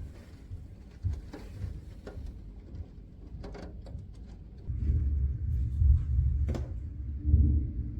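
Wind buffeting the microphone as a low rumble that grows much louder about halfway through, with scattered sharp knocks and taps.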